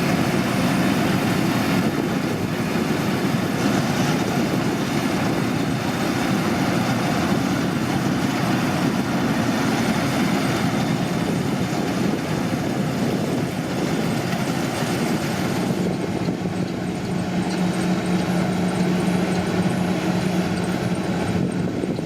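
Combine harvester running steadily while harvesting rice, its engine and machinery making a continuous mechanical noise. About three-quarters of the way in, the high hiss eases and a steady low hum comes to the fore.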